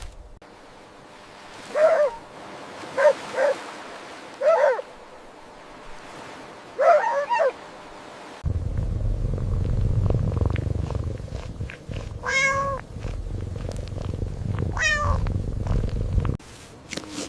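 Domestic cat meowing: five short meows in the first half. Then a steady low purring with two longer, higher meows over it, stopping abruptly near the end.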